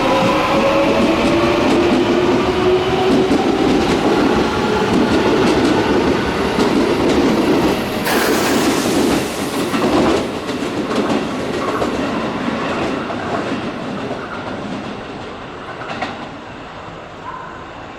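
Electric commuter train running along the platform, wheels clattering over the rail joints, with a gliding electric motor whine at the start. The noise stays loud for about ten seconds, then fades steadily as the train draws away.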